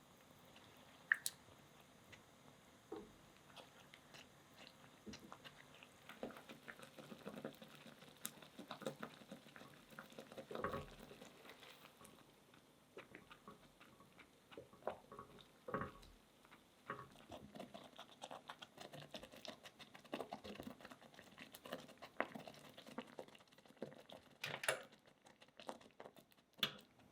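Quiet kitchen food-preparation sounds: scattered soft taps, clicks and wet squishes of handling food and utensils, with a few sharper taps now and then.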